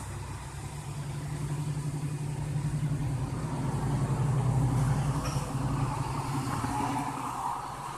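A car's engine running close by, growing louder to a peak about halfway through and then fading away.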